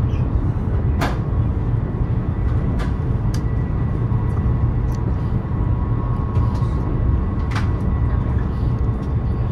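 High-speed train running at speed, heard inside the passenger carriage: a steady low rumble with a faint steady whine, broken by a few sharp clicks.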